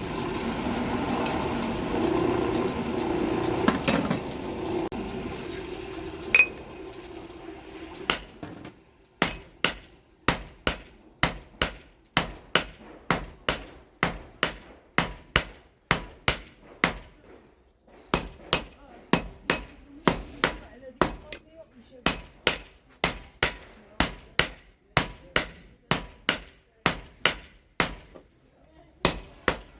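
A steady mechanical hum with a few knocks, then from about eight seconds in a regular series of sharp hammer blows on steel, roughly one and a half a second: a billhook machete blade being forged on the anvil.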